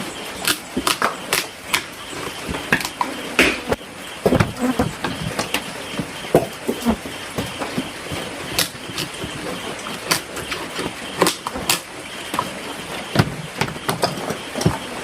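Rain falling, a steady hiss with irregular sharp taps and knocks of drops striking hard surfaces, a few a second.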